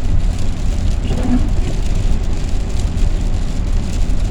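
Van driving on the road, heard from inside the cabin: a steady low rumble of engine and tyres.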